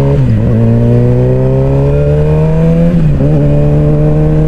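Suzuki GSX-R600's inline-four engine accelerating hard, its pitch climbing. It dips sharply at two upshifts, about a third of a second in and about three seconds in.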